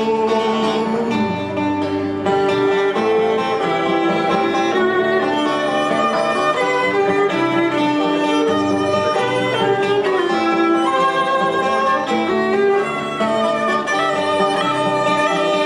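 Instrumental break between verses: a violin plays the melody over guitar accompaniment.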